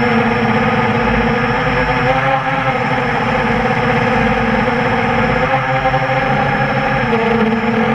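QAV400 quadcopter's four brushless motors (T-Motor MT-2212 1100kv) spinning 8x5 propellers in flight, a steady loud whine whose pitch dips and rises briefly with throttle changes, about two seconds in and again near the end.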